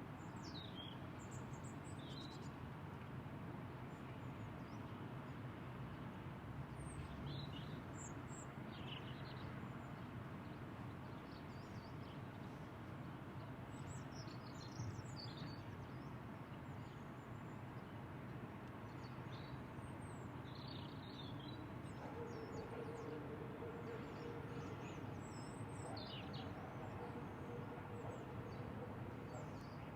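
Small birds chirping and twittering on and off over a steady low background rumble. A faint steady hum joins in about two-thirds of the way through.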